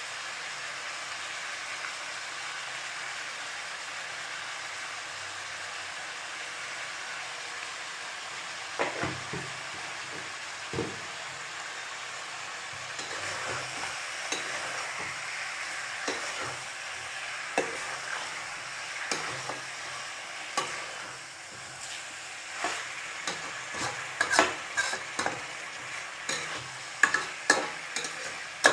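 Chicken frying in masala with a steady sizzle, stirred with a utensil that scrapes and clinks against the pan. The stirring strokes start about a third of the way in and come thicker and louder near the end.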